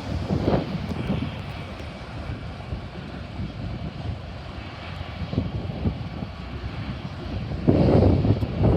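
Diesel locomotives of an approaching BNSF freight train running, a steady low drone that gets louder near the end.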